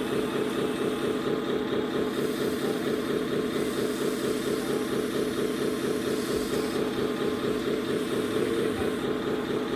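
Steady, rhythmic diesel-truck engine idle from a 1/14 scale RC truck's sound unit, holding an even pitch without revving.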